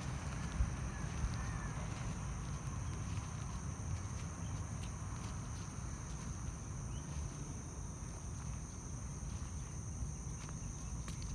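Park ambience: a steady high drone of insects, with a low rumble underneath and a few faint bird chirps about a second in.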